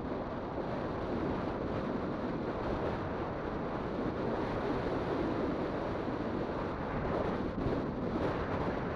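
Steady rushing of wind over the microphone while riding an electric bike.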